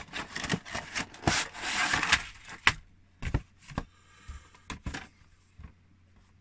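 A cardboard miniatures box being opened and its plastic contents handled: a quick run of clicks and knocks with a rustle about a second and a half in, thinning to a few taps and going quiet after about five seconds.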